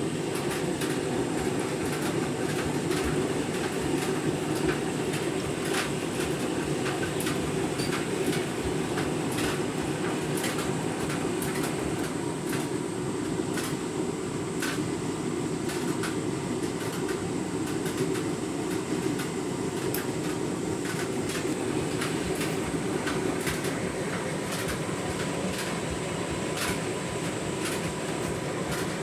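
Candy washing machine on its deep rinse, the drum turning the laundry: a steady rumble with frequent light clicks throughout.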